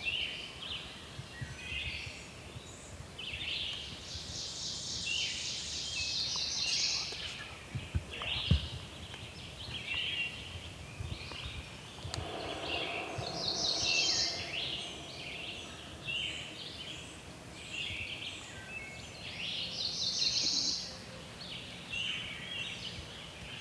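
Songbirds singing in spring woods, with several trilling songs. A wild turkey gobbles in the distance about twelve seconds in, and there are two sharp knocks about eight seconds in.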